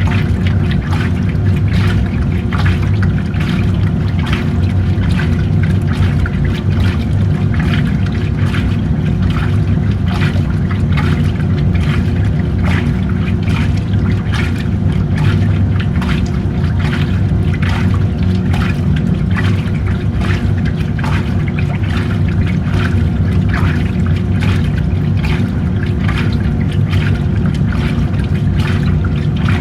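Washing machine running through a wash: a steady motor hum under rhythmic sloshing of water in the tub, about one to two swishes a second.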